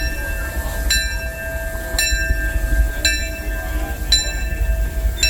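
Steam locomotive bell ringing at an even pace, about one stroke a second, each stroke ringing on, over a low rumble from the train.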